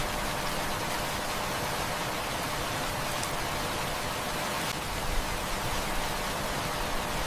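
Heavy rain falling steadily, a dense even hiss, with a few faint sharp clicks mixed in.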